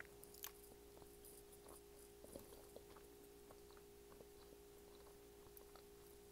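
Near silence: faint, scattered soft clicks of closed-mouth chewing on honeycomb, over a steady faint hum.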